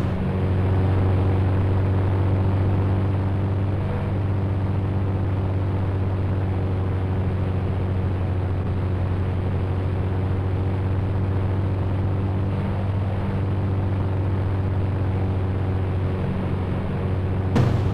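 Helicopter engine and rotor running steadily, a continuous low drone with a rushing hiss over it. A brief click breaks it near the end.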